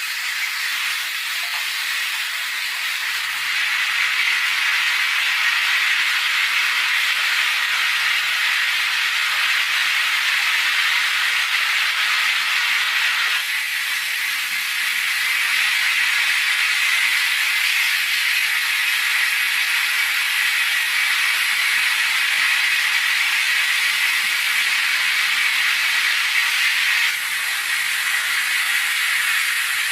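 A steady, loud hiss of noise with no clear pitch, stepping abruptly in level twice, about halfway through and near the end.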